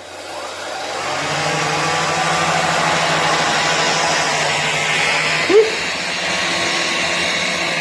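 An AEG VX6-2-ÖKOX bagged 800-watt vacuum cleaner switching on and running steadily, its motor coming up to speed over the first second or so. A brief rising squeak sounds about five and a half seconds in.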